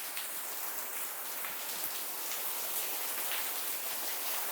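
Steady rain falling: an even hiss, with the odd nearer drop tapping.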